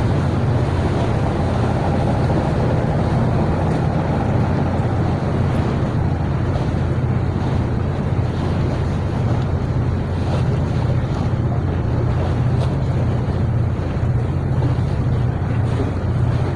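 Fishing boat's engine running steadily with a low drone, with wind buffeting the microphone and water noise over it.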